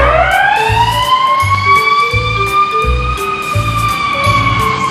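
Fire truck siren winding up into a rising wail, then holding and slowly falling in pitch, over background music with a steady beat.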